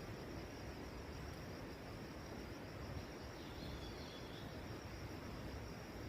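Steady outdoor hiss with insects trilling continuously and a short, high bird whistle about three and a half seconds in.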